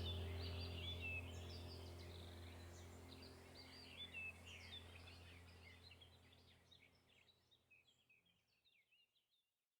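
Birdsong of many quick, high chirps from several birds over a low steady hum. Both fade out gradually, leaving near silence for the last couple of seconds.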